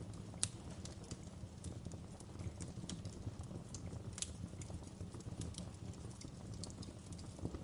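Wood fire burning in a fireplace: a steady low rumble of flames with irregular crackles and pops, a sharper pop about half a second in and another about four seconds in.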